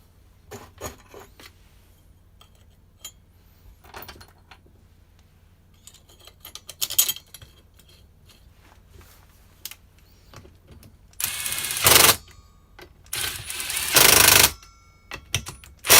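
Small metal parts and hand tools clicking and knocking as a strimmer's clutch is refitted. Near the end come two loud, noisy bursts of about a second each.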